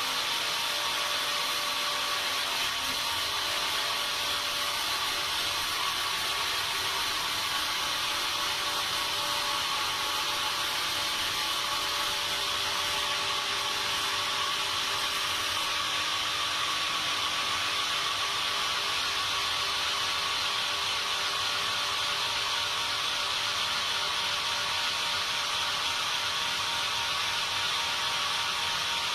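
Sawmill machinery running steadily, a continuous even noise with a faint steady whine.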